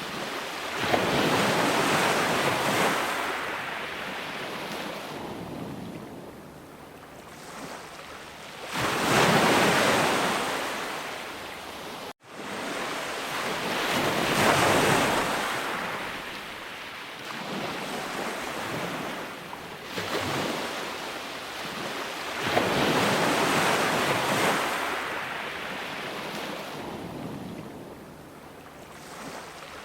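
Ocean waves breaking and washing on a shore, the surf swelling and ebbing in slow surges several seconds apart. The sound cuts out for a split second about twelve seconds in.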